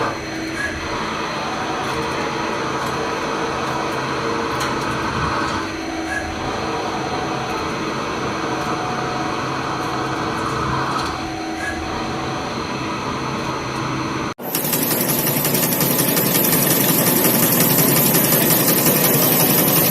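Industrial machinery running steadily, working in a repeating cycle of about five seconds, then a cut about 14 seconds in to a louder, hissing machine noise with a high whine.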